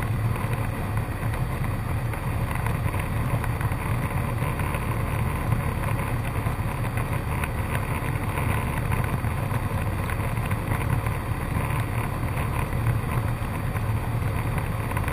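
Cessna 152's four-cylinder Lycoming engine and propeller heard from inside the cockpit: a steady, even drone with airflow noise and no change in power.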